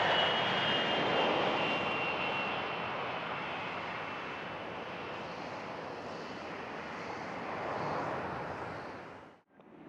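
Business jet's engines passing by, a steady rushing noise with a high turbine whine that slowly fades, cutting off abruptly near the end.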